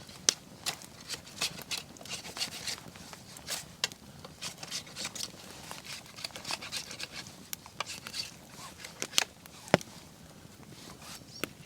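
Wood campfire crackling, with a steady run of irregular sharp snaps and pops and one louder pop near the end.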